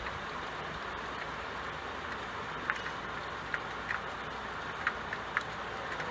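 Steady rain falling, an even hiss, with a few sharp drip-like ticks of single drops standing out in the second half.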